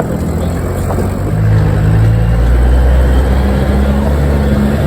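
A 4x4's engine running under load as it drives along a rough off-road track. The engine note rises and gets louder about a second and a half in.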